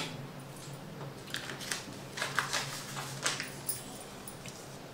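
Quiet room tone with a low steady hum and a scatter of faint small clicks and rustles, from plates and snacks being handled at a dining table.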